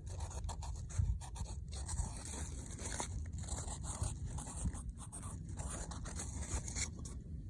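A pen writing a plant name on a fibre peat pot: a run of short, scratchy strokes.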